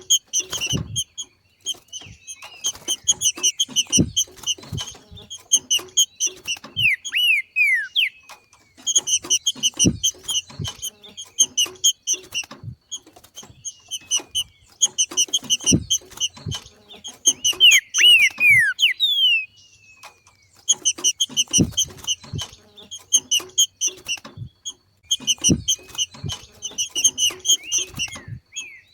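Green-winged saltator (trinca-ferro) giving its 'macheado', the chattering call of a bird in breeding condition: runs of rapid sharp notes lasting a few seconds each, broken by short gaps. Twice, once about a quarter of the way in and once around two-thirds, a few quick downslurred whistled notes come in, and there are scattered low knocks.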